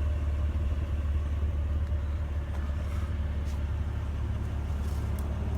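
A car engine idling, heard as a steady low rumble from the exhaust, most likely the 2009 Acura TL fitted with the new 4-inch quad exhaust tips.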